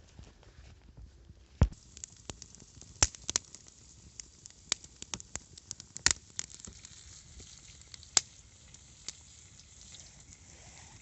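Chicken and potatoes frying in a disc pan over a wood campfire: a faint steady sizzle with many sharp crackling pops, a few of them loud.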